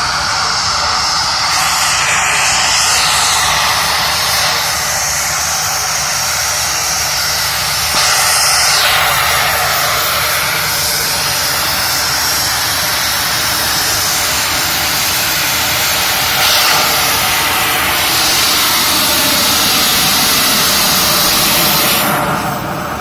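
A jetpack's engines running loud and steady, a whining roar whose pitch dips and shifts a few times, falling away near the end.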